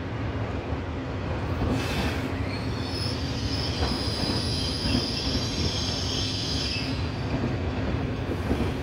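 Trenitalia Frecciargento high-speed electric train rolling slowly through the station with a steady low rumble. A high-pitched metallic squeal from the train sets in about two and a half seconds in and fades out around seven seconds.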